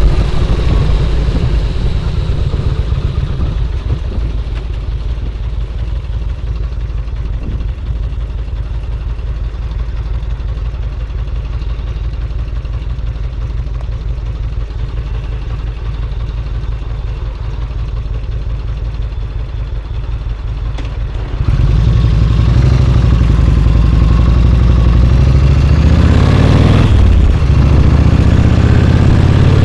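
Yamaha Road Star XV1600's air-cooled V-twin engine running with a steady low pulse. It gets suddenly louder about two-thirds of the way through, and its note dips and rises briefly near the end.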